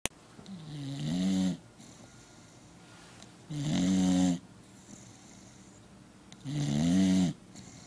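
Dog snoring: three snores about three seconds apart, each about a second long and rising in pitch as it starts.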